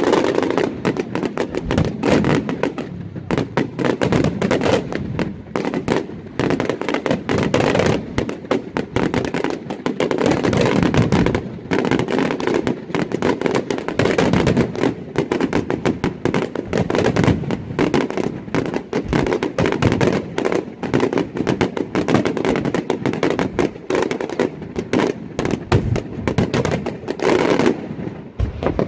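Fireworks display going off in a dense, unbroken barrage of rapid bangs and crackling.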